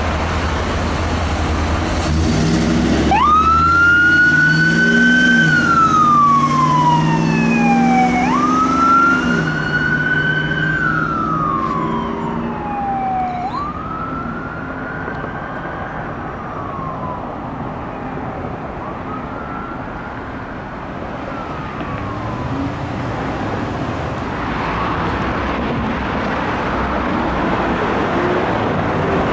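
Emergency vehicle siren wailing, each cycle rising quickly and falling slowly about every five seconds. It grows fainter over four cycles as the responding apparatus drives away. A heavy engine rumble comes just before the siren starts, and road noise follows after it fades.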